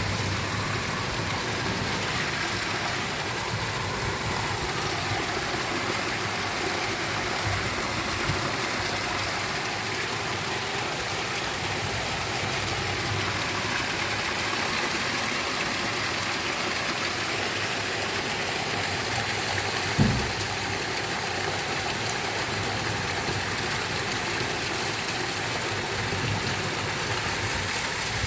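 Steady rain falling, an even hiss, with a single low thump about two-thirds of the way through.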